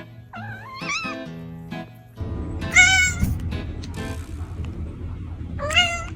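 A cat meowing three times, the call about three seconds in the loudest, over background music.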